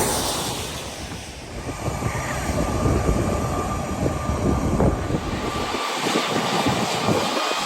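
Jet airliner engines: a heavy rumble with a faint high whine. It eases about a second in, then builds again.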